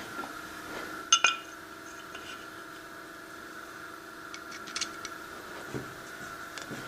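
Metal parts clinking as they are handled at a lathe: two sharp clinks about a second in, then a few fainter ticks, over a steady hum.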